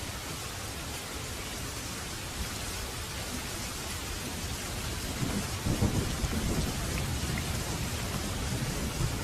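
Steady rain falling, with a low rumble of thunder swelling about halfway through and fading out.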